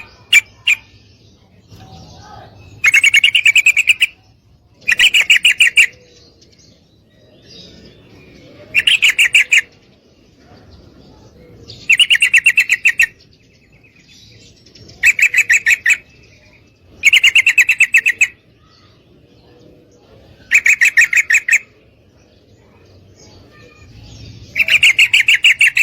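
Female yellow-vented bulbul (trucukan) calling: eight loud bursts of rapid, chattering repeated notes, each about a second long, coming every two to four seconds.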